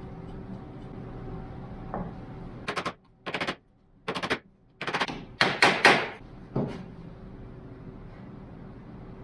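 A cluster of about eight short bursts of rapid, sharp knocking or rattling impacts, loud and close together, between about three and seven seconds in, over a steady low hum.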